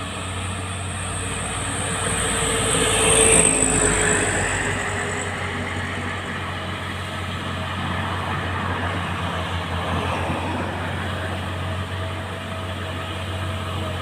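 Mitsubishi Fuso truck's diesel engine pulling up a steep climb under a heavy load, a steady low drone. It swells loudest about three seconds in, with a high whine that fades away, then settles back to a steady drone.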